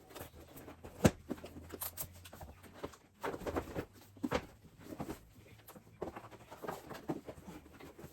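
Sheets of paper and binders of bank statements being handled and leafed through: irregular rustling and light knocks, with one sharp click about a second in.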